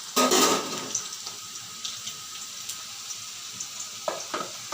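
Chopped onions sizzling steadily in hot mustard oil in a kadai, with a louder burst of sizzle or stirring just after the start.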